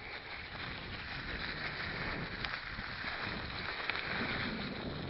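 Stels mountain bike rolling along a rough forest dirt track: steady tyre noise and wind on the microphone, with a couple of small clicks and rattles from the bike.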